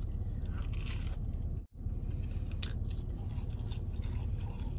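Close-up chewing of a breaded chicken nugget, with a few faint crunches, over a steady low hum. The sound drops out for an instant about a second and a half in.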